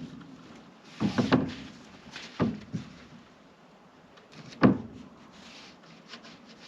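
A few irregular knocks and thuds from construction work, with the loudest single knock a little past the middle.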